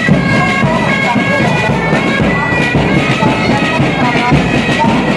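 Bagpipes playing a marching tune over their steady drone, with voices faintly underneath.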